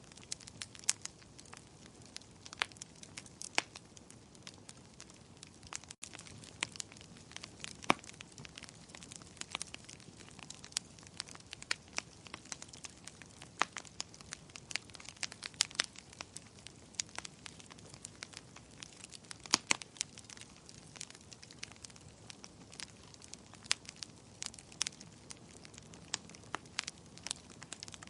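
Wood fire crackling in a fireplace: a steady low hiss with frequent sharp, irregular pops and snaps.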